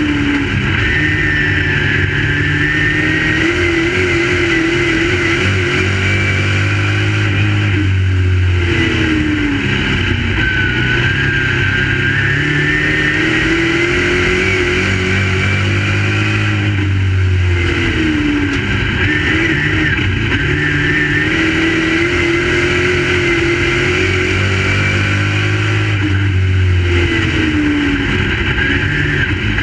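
Crate late model race car's V8 engine running hard while lapping the track. The revs drop and climb back about every nine seconds as the car slows for the turns and accelerates down the straights.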